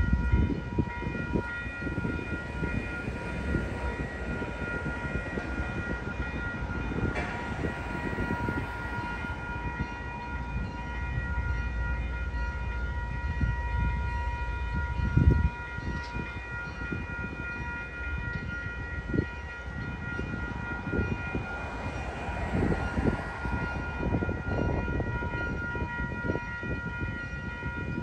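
MBTA Commuter Rail diesel train pulling away, heard as a steady high whine of several held tones over an uneven low rumble. A louder thump comes about fifteen seconds in.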